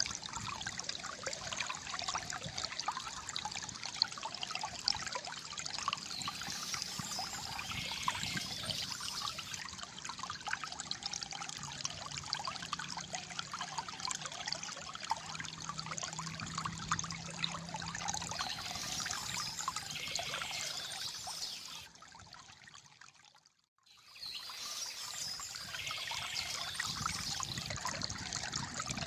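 Shallow flowing water trickling and gurgling steadily, with dense small splashes. About three-quarters of the way through, it fades out briefly and comes back.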